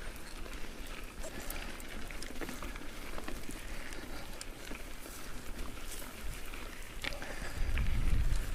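Mountain bike tyres rolling and crunching over a gravel trail on a climb, a steady rustle dotted with small stone clicks. A low rumble swells briefly near the end.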